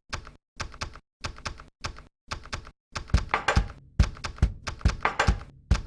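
Table-top coin counting and sorting machine running, with coins clicking and clattering through it in short rapid runs. About halfway through the clatter becomes continuous and louder, with a regular low thump a little more than twice a second.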